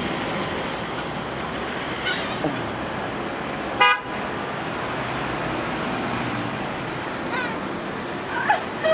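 Gulls calling: one short, loud squawk about four seconds in and fainter falling calls before and after it, over a steady outdoor rush of traffic and wind.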